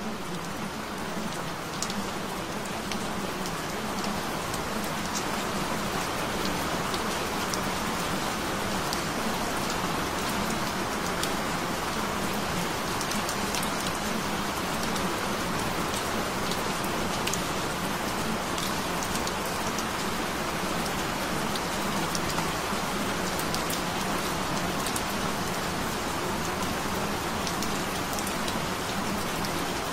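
Steady rain: an even hiss of rainfall with scattered sharp drop ticks, unchanging throughout.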